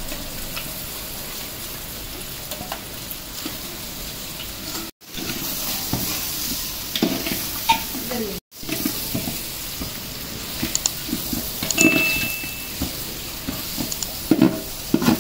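Raw chicken pieces sizzling in hot masala in a large metal pot, stirred with a perforated metal ladle that scrapes and clunks against the pot. The sizzle cuts out briefly twice.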